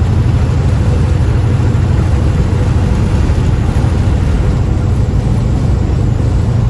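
Steady low rumble of a semi truck's engine and road noise, heard from inside the cab.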